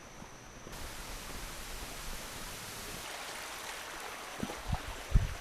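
Steady rush of a flowing stream, with a few low thumps near the end.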